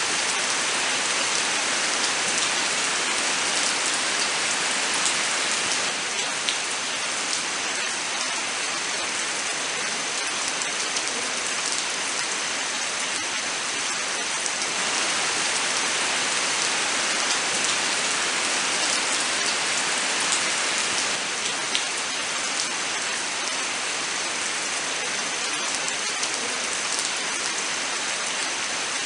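Steady, heavy rain falling in a forest, an even hiss with many small drop impacts ticking through it.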